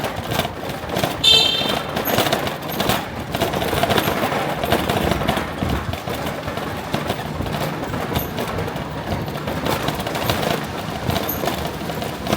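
Continuous rattling and rumbling of a scooter riding over a rough, bumpy surface, many rapid small knocks and clicks, with a brief high squeak about a second in.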